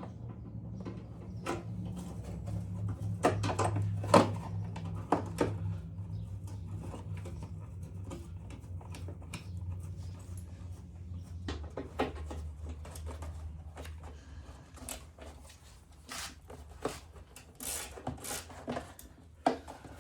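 Irregular clicks and knocks of hand tools working a screw out of a bumper, over a low steady hum that fades away about two-thirds of the way through.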